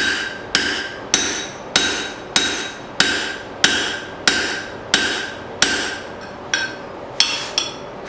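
Blacksmith's hammer driving a 3/8-inch drift through a punched hole in a steel plate over the anvil's pritchel hole. The blows come steadily about every 0.6 seconds, each with a metallic ring, and a few lighter, quicker taps come near the end.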